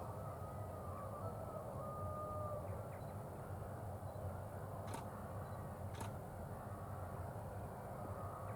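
Steady low rumble of a freight train some distance from the level crossing, with two sharp clicks about a second apart midway through.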